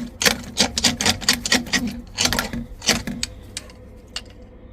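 Drain rods knocking and scraping against the drain, a rapid irregular clatter of clicks that dies down after about three seconds.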